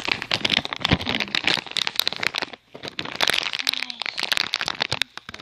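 Plastic packaging crinkling and rustling as it is handled, a dense run of irregular crackles.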